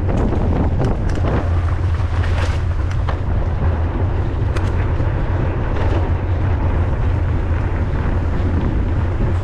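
Wind rushing over the microphone of a camera riding on a mountain bike: a loud, steady low rumble with scattered clicks and rattles.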